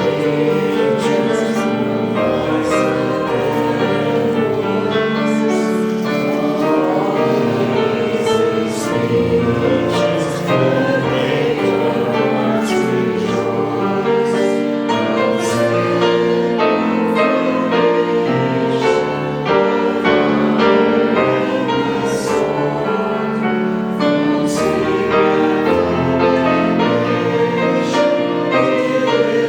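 Church congregation singing a hymn together, many voices in sustained, steady-paced phrases.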